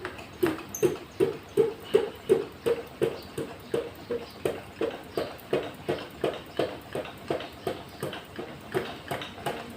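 Hand air pump of a small kerosene pressure lantern being worked in quick, even strokes, about three a second, each stroke a short pitched puff, pressurising the fuel tank.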